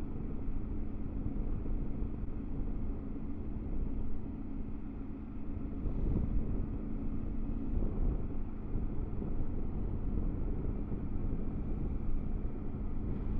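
Triumph Tiger 900 GT Pro motorcycle's three-cylinder engine running at a steady cruise, with wind and road rumble. The steady engine hum shifts a little past halfway through.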